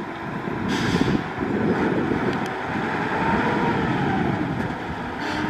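Heavy diesel construction machinery running with a steady low rumble. Two short hisses come through, one about a second in and one near the end.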